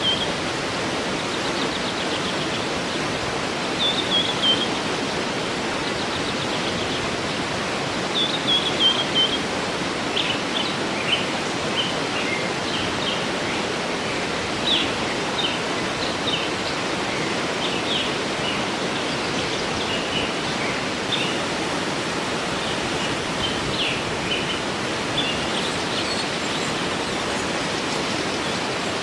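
A waterfall rushing steadily, with birds singing over it: a short falling phrase sung three times, about four seconds apart, then many short scattered chirps.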